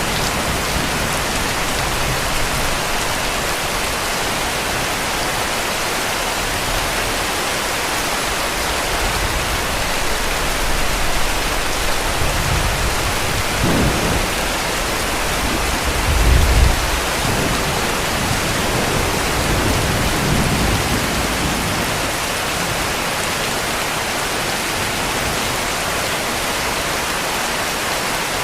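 Heavy rain falling steadily, with distant thunder rumbling low about halfway through, loudest a little past the middle.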